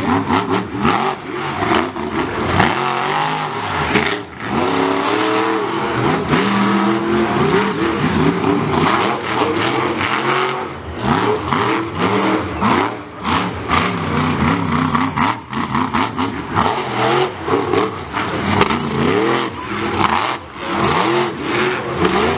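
Monster truck engine revving hard again and again, its pitch climbing and dropping every second or two, with many sharp cracks and bangs throughout.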